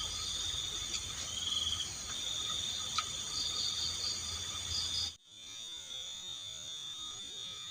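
Night insects, crickets, trilling steadily in several high pitches, some of them pulsing. A low rumble beneath them cuts off abruptly about five seconds in, and a single tick is heard about three seconds in.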